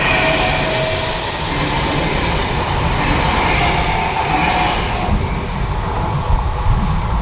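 Train passing on a mainline: a steady rumble with high ringing tones in the first second and again around four seconds in, the higher sound dying away after about five seconds.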